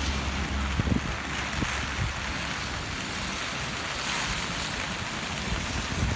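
Typhoon wind gusting and buffeting the microphone in low rumbles, strongest in the first second or so, over the steady rushing of the flood-swollen river.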